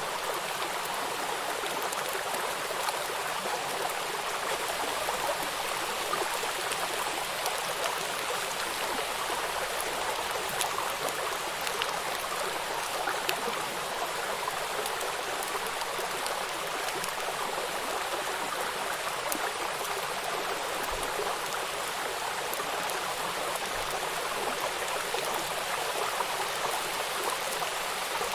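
Steady rain falling on a flowing river: an even wash of running water with the fine patter of many raindrops hitting the surface.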